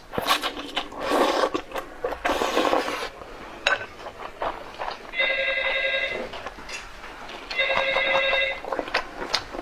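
A phone ringing: a trilling electronic ring in bursts about a second long, repeating roughly every two and a half seconds, starting about five seconds in. Before it come a few seconds of noisy rustling bursts.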